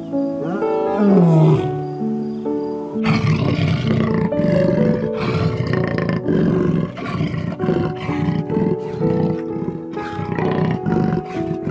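Calm background music of held notes under a loud animal call: a short falling cry about half a second in, then a rough, rasping roar from about three seconds in to the end.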